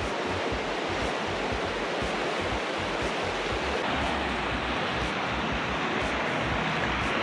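Steady rushing road and wind noise of a car driving, with irregular low wind buffeting on the microphone, swelling slightly near the end.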